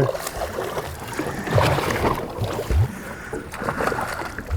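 Water sloshing and lapping against a boat's hull, with a few irregular low thumps.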